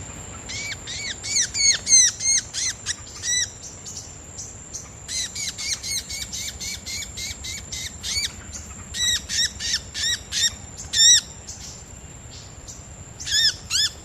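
A small bird calls repeatedly in quick bursts of short, arched, high notes, with pauses between the bursts. A thin, steady high-pitched tone runs underneath.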